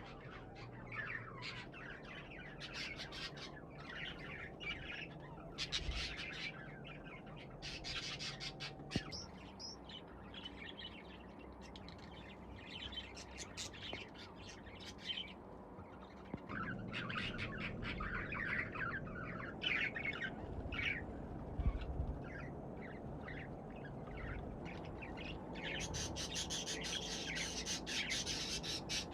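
Budgerigars chirping and chattering in short repeated bursts, becoming a denser, continuous chatter near the end.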